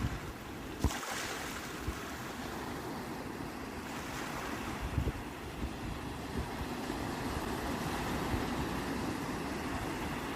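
Sea waves breaking and washing ashore in a steady rush, with a stronger surge about a second in. A few short low thumps of wind on the microphone.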